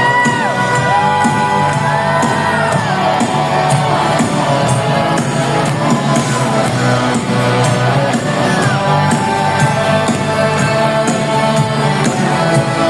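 Live pop ballad played loud in a concert hall, with a steady drum beat and a smooth, gliding melody line, and shouts from the audience over the music.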